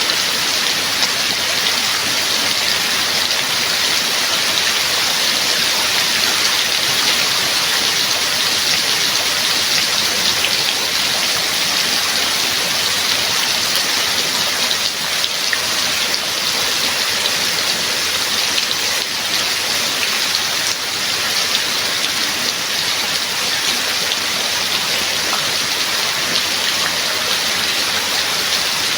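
Steady rain falling: an even, unbroken hiss of many drops with fine pattering.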